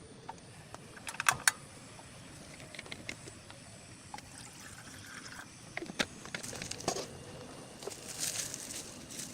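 Scattered clicks, knocks and rustles of objects being handled, over a steady background hiss.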